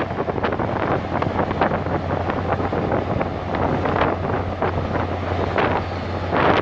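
Wind buffeting the microphone in rough gusts, over a steady low hum.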